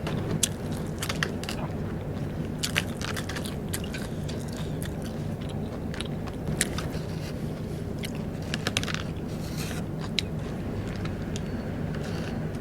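Close-miked chewing and crunching of Vietnamese rice paper snacks (bánh tráng), with scattered short crisp crackles as the pieces break between the teeth.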